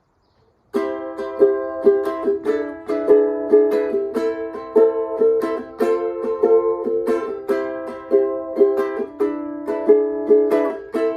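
Music: a strummed string instrument playing a steady rhythmic chord pattern, starting about a second in.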